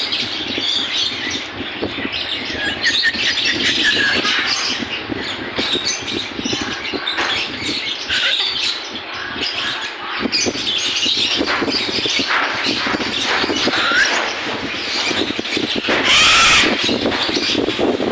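Many caged birds chirping and squawking over one another, with one loud, harsh screech about sixteen seconds in.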